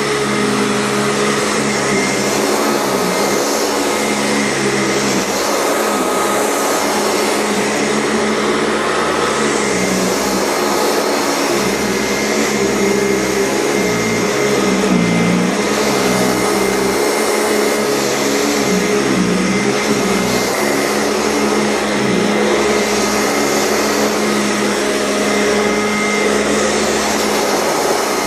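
Euroclean upright vacuum cleaner running steadily in use, a continuous motor hum with a steady whine. Its bag has a bad seal, so a little air leaks.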